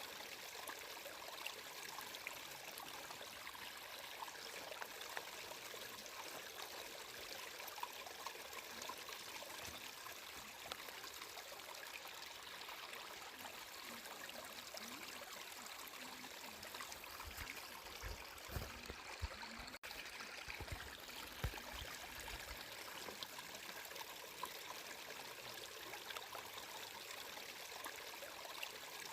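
Flowing water running and trickling steadily, like a small stream. A few low thuds come about two-thirds of the way through, with a momentary break in the sound among them.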